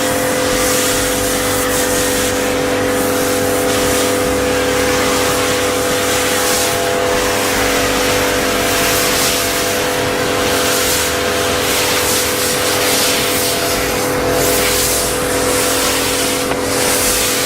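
Kärcher K7 electric pressure washer running steadily: an even hum from the motor and pump under the hiss of the high-pressure water spray.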